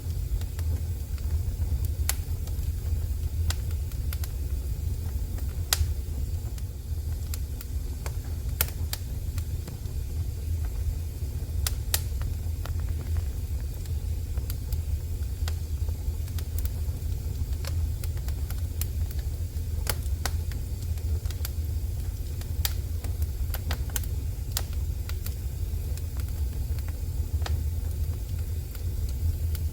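Wood fire crackling in a fireplace: scattered sharp pops and snaps, several seconds apart, over a steady low rumble.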